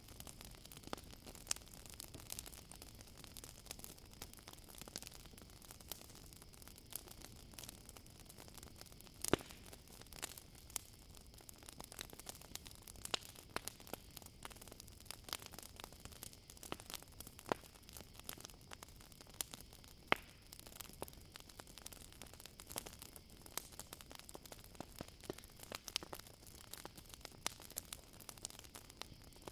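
Campfire crackling, with irregular sharp pops and snaps, two louder ones about nine and twenty seconds in, over a steady high chirring of crickets.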